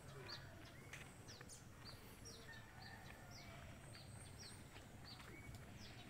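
Faint bird calls: a short downward-sweeping chirp repeated about twice a second, over low, steady background noise.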